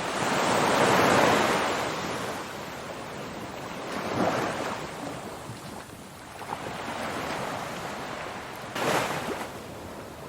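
Ocean surf: waves rushing in and washing back, the sound swelling and fading, with a large surge near the start and smaller ones about four and nine seconds in.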